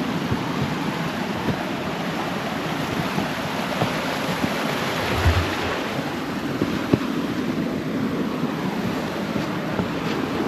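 Stream water rushing steadily over rocks near a small waterfall, with a few faint clicks and a brief low thump about halfway through.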